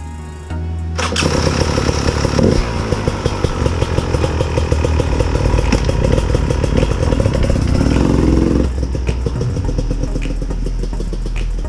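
Beta 300RR two-stroke dirt bike engine running, coming in suddenly about half a second in, with a rising rev around 8 seconds in that falls away about 9 seconds in.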